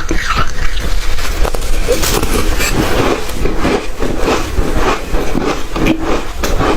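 Close-miked chewing of hard ice: loud, rapid, irregular crunching and cracking, several crunches a second.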